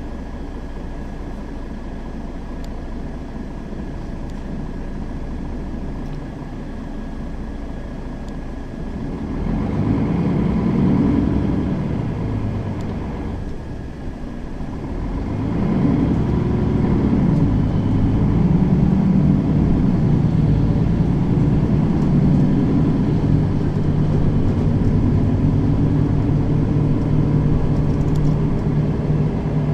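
Mercedes-Benz Citaro facelift city bus engine and drivetrain heard from inside the bus, running quietly at first. It grows louder about nine seconds in, drops briefly around fourteen seconds, then runs louder and steadily from about sixteen seconds on.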